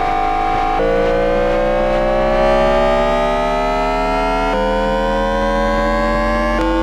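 Toyo two-level GTO-VVVF inverter and traction motor of a Tokyu 1000 series train, picked up electromagnetically during acceleration. It sounds as a set of tones that rise steadily with speed, and the pitch jumps abruptly about a second in, midway and near the end as the inverter changes pulse mode. A steady low hum runs underneath.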